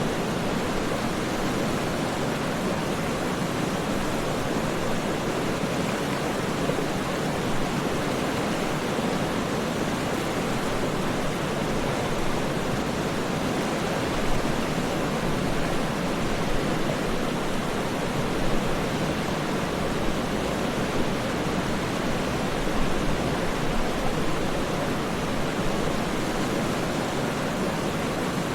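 Waterfall: a steady, even rush of falling water, strongest in the low-middle range, with small swells here and there.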